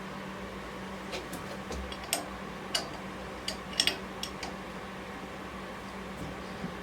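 A dozen or so short, sharp clicks and light knocks, clustered in the middle with the loudest pair close together, over a steady low hum.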